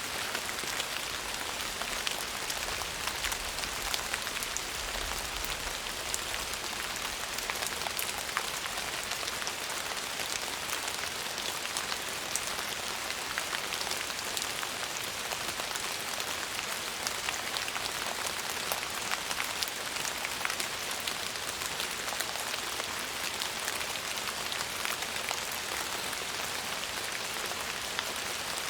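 Steady rain falling on a surface, an even hiss dotted with the sharp ticks of individual drops. A faint low rumble lies under it in the first few seconds.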